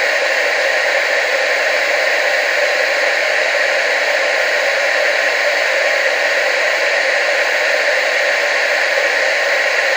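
Analog TV static: a steady, unchanging hiss, brightest in the middle-high range with almost no bass.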